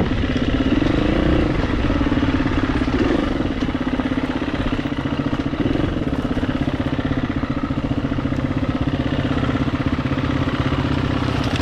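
Dirt bike engine running at a steady, fairly low speed, with small throttle blips about a second in, at about three seconds and near six seconds, then holding an even note.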